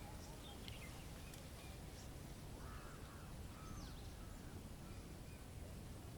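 Faint bird calls: a couple of short arched calls about two and a half to four seconds in, with scattered short high chirps and a falling note, over a steady low rumble.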